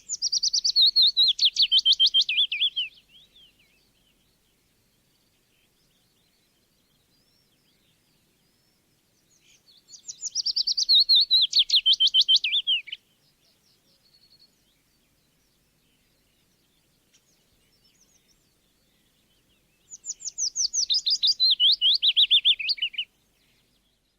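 A songbird singing three times, about ten seconds apart: each song is a rapid run of chirping notes falling in pitch over about three seconds. Faint, softer chirps come between the songs.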